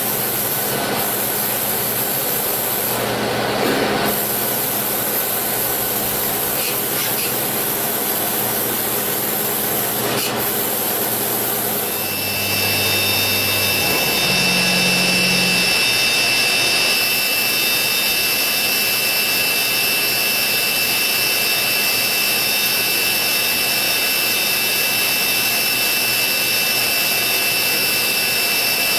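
Citizen Swiss-type CNC lathe machining a bone screw with low-frequency vibration cutting: a steady mechanical rubbing and cutting noise. About twelve seconds in the sound changes and steady high whining tones join it.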